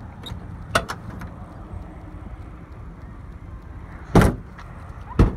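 Work truck's doors being opened and shut: a few light latch clicks about a second in, then two heavy door slams about four and five seconds in, over a steady low hum. The doors are ones the owner says need some work.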